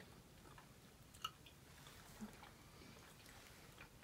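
Near silence with faint chewing of gummy bears and a light click about a second in.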